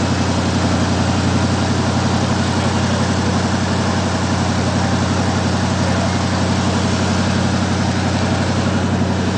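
V8 engine idling with a loud, steady, deep rumble.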